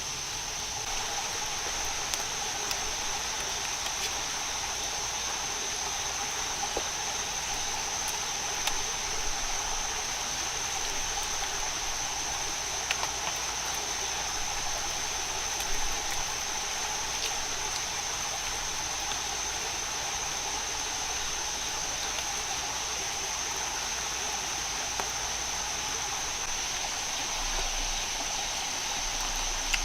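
Rainforest ambience: a steady insect chorus with one constant high-pitched drone over a steady hiss. A few faint clicks are scattered through it.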